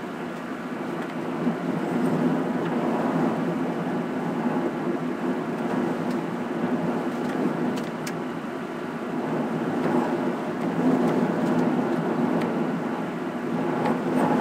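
Steady rushing noise of Hurricane Sandy's wind and rain, swelling and easing in gusts.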